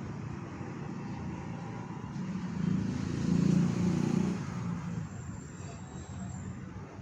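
Motorcycle engine running, swelling louder for a couple of seconds about three seconds in before settling back.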